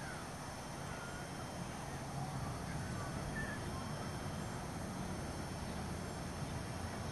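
Outdoor ambience on tidal mud flats: a steady low rumble with several faint, short bird calls scattered through the first half.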